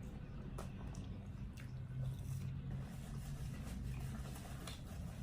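A person chewing and biting into fast food, with irregular crisp clicks and smacks, over a steady low hum.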